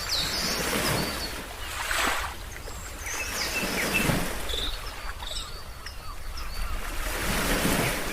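Ocean waves washing ashore in repeated swells, with small birds chirping in short, high calls over them.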